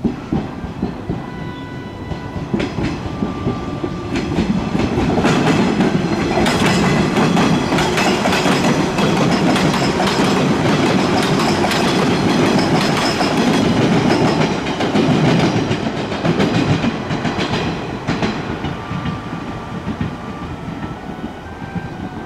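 Train passing, wheels clicking over the rail joints: the sound builds about four seconds in, stays loud for some ten seconds, then fades away.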